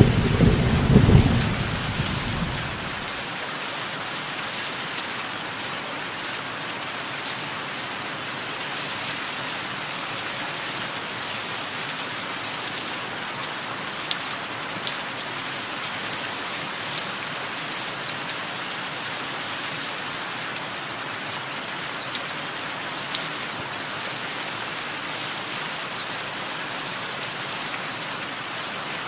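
Steady rain, with a roll of thunder dying away over the first two or three seconds. Birds then chirp over the rain, in short high notes that drop in pitch, every second or two.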